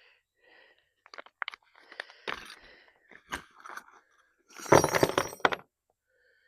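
Metal hand tools clinking and rattling as a set of Allen wrenches (hex keys) is sorted through in search of the right size, with a burst of louder rattling a little before the end.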